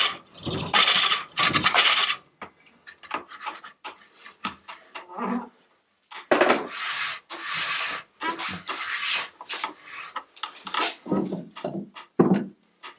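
Hook tool cutting a large green walnut bowl spinning on a pole lathe: a run of rasping cuts, each lasting half a second to a second, with a brief pause about five and a half seconds in.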